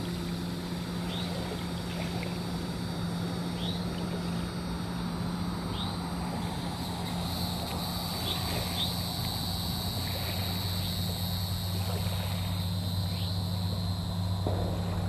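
A steady engine hum holding one low pitch, with short high falling chirps every second or two over it.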